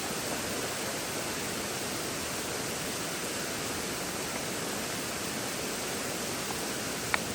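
Rushing water from a creek waterfall, a steady even hiss, with a sharp click shortly before the end.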